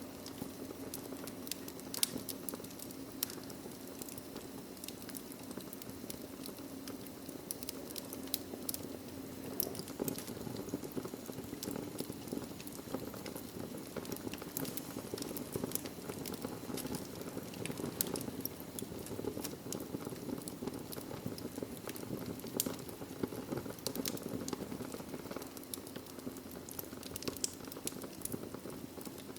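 Wood fire burning in a fireplace: a steady low rush of flames with frequent irregular crackles and sharp pops from the logs.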